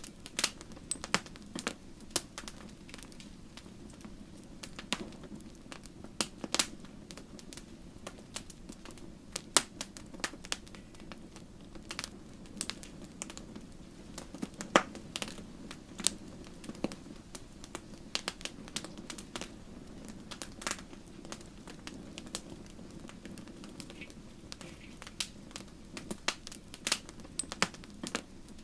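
Wood fire burning in a fireplace: logs crackling and popping with irregular sharp snaps over a steady low rush of the flames.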